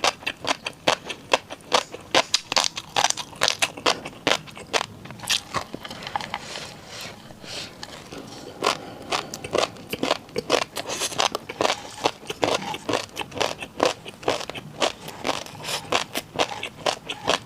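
Close-miked eating: a rapid run of crisp crunches and crackles from biting and chewing crunchy food, softer for a couple of seconds near the middle before the crunching picks up again.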